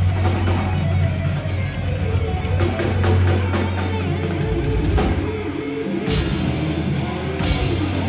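Heavy metal band playing live: distorted electric guitars over bass and a drum kit, with two loud crashing hits in the last couple of seconds.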